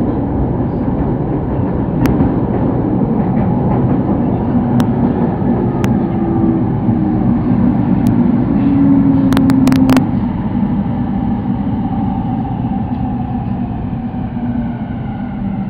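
Sotetsu Line electric train running on the track, heard from on board: a steady rumble with sharp clicks of the wheels over rail joints, a cluster of them about ten seconds in. Near the end a motor whine shifts in pitch as the overall noise eases a little.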